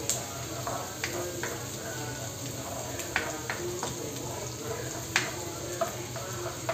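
Sliced onion and garlic sizzling in oil in a nonstick wok while a plastic spatula stirs them, with sharp taps and scrapes of the spatula against the pan every second or so.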